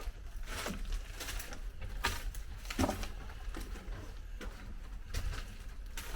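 Footsteps walking through a narrow passage, an uneven step about every two-thirds of a second, over a low steady rumble.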